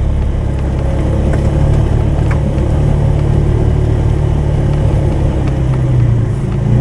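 A Polaris 570's engine running steadily, its pitch and load shifting a little, while it pushes a snowplow.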